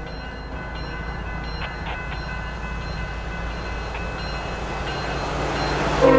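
Norfolk Southern diesel train approaching along the track, its rumble growing steadily louder as it nears.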